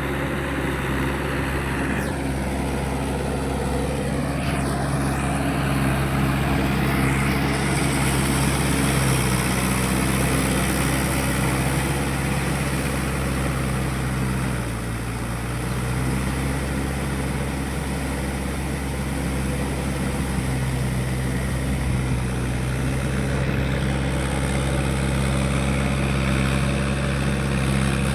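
Mahindra 585 tractor's diesel engine running steadily, its pitch dipping briefly about halfway through before picking up again.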